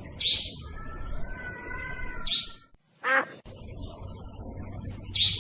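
Nightjar (cabak) lure recording: short, sharp high-pitched calls repeated about every two to three seconds, with a lower, steadier whistling between the first two. Near the middle the sound briefly drops out and a quick whistle falls steeply in pitch.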